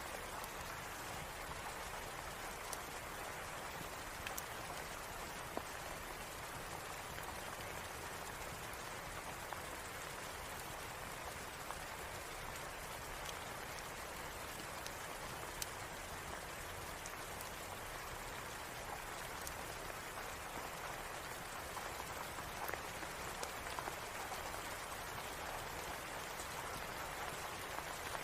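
Steady rain, an even hiss with no change in strength, sprinkled with scattered faint ticks.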